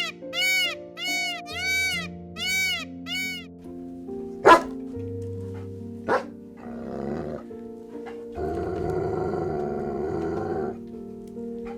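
Animal calls over steady background music. First comes a quick run of short, rising-and-falling pitched calls, about two a second. Then there are two sharp loud yelps or barks and a long rough sound about two seconds long.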